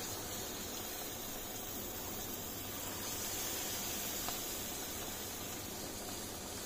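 Battered chicken pieces deep-frying in hot rice bran oil in a non-stick pan: a steady sizzling hiss, with one faint tick about four seconds in.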